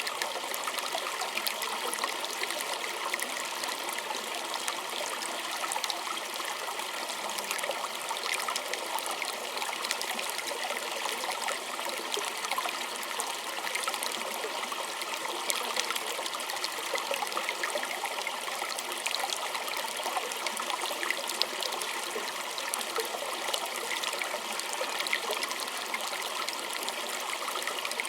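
A small stream trickling and babbling over stones: a steady, even rush of water with fine splashing and gurgling detail throughout.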